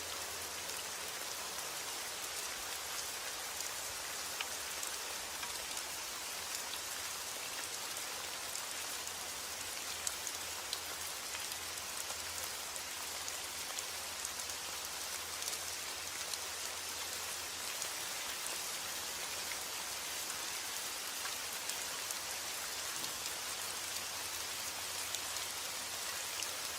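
Steady rainfall with many small drops pattering on surfaces, an even hiss without thunder.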